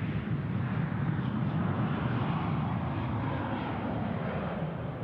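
Jet engines of a United Airlines Boeing 737 running, a steady low rumble with a hiss above it.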